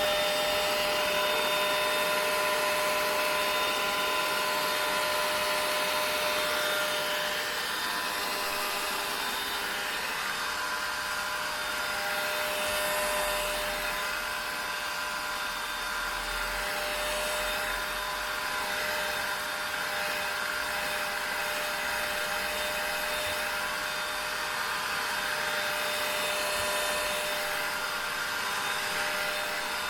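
Vacuum cleaner running steadily: a constant rush of air with a motor whine of several held tones.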